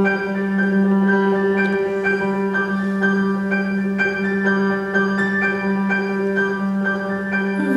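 Grand piano playing an instrumental interlude between sung verses, notes struck about twice a second over a steady held low tone that fades near the end.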